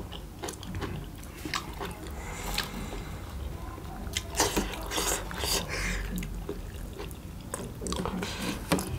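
Two people chewing large steamed chicken taipo momos, with wet mouth sounds and scattered small clicks and smacks.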